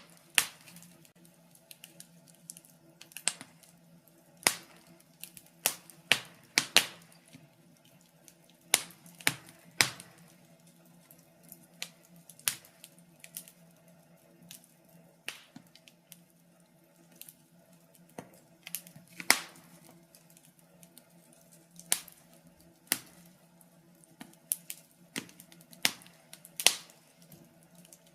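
Wood fire crackling in a fireplace: sharp, irregular pops and snaps, a few every couple of seconds, some much louder than the rest.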